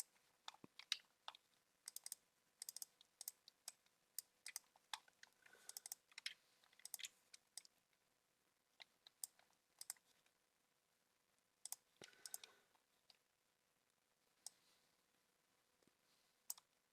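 Faint, scattered clicks of a computer mouse and keyboard, in short irregular clusters with pauses of a few seconds between them.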